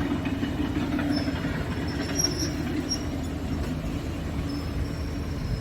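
Scania S tractor unit's diesel engine idling steadily, a low even rumble.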